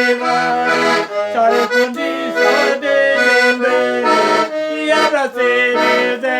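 Sanfona (accordion) playing a lively instrumental melody with chords, with bass notes pulsing underneath.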